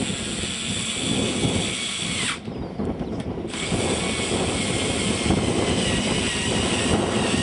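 Small model jet turbine of an RC Hughes 500E helicopter running with a high-pitched whine over a dense mechanical rattle. The whine breaks off abruptly for about a second a little past two seconds in, then returns.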